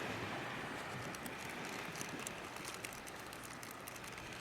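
Faint, steady wash of ocean surf, with scattered light clicks.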